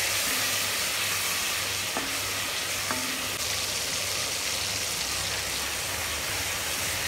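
Onion, chilli and turmeric masala sizzling in oil and water in a pressure cooker pot while a spoon stirs it, with a couple of light clicks about two and three seconds in. The masala is cooking down and nearly done.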